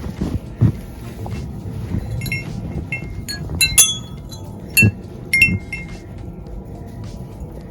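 Light metallic clinks and short ringing chimes, a few at a time and irregular, most of them between about two and six seconds in, over a low rumble with a few dull thumps.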